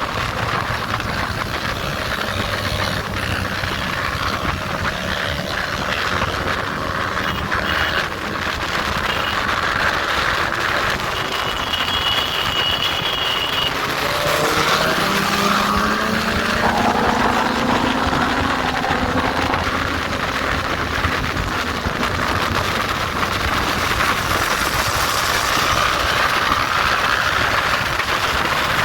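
Motorcycle engine running under way, with heavy road and wind noise. About halfway through, the engine note rises as the bike accelerates. A brief high tone sounds shortly before that.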